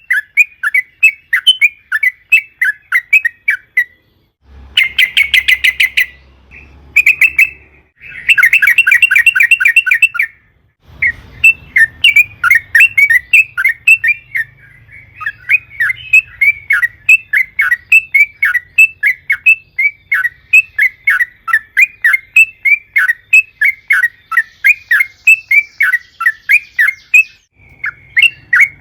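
Yellow-vented bulbul (trucukan) calling in quick, repeated chattering notes, about four or five a second, broken twice in the first ten seconds by short runs of very fast trilled notes.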